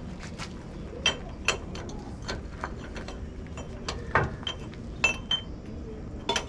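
Irregular metal clinks and clanks of steel tools and parts knocking together during hydraulic cylinder disassembly, some strikes ringing briefly. The heaviest knock, with a dull thump, comes a little past the middle.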